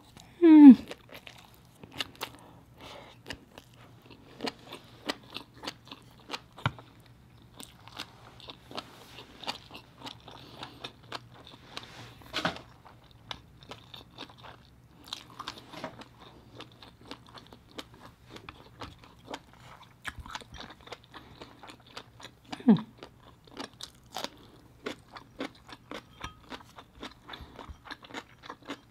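Mouth sounds of a woman chewing a mouthful of rice topped with fish roe: a long run of small wet clicks and crunches. A short falling 'mm' hum comes just after the start, and again about two-thirds of the way through.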